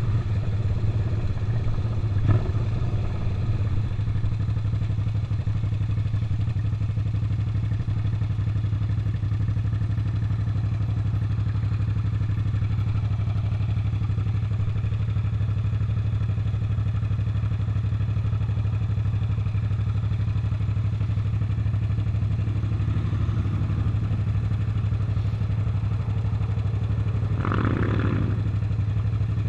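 Suzuki SV650's 90-degree V-twin engine running at a steady, unchanging speed, heard from the rider's seat. A sharp knock about two seconds in, and a brief louder sound over the engine near the end.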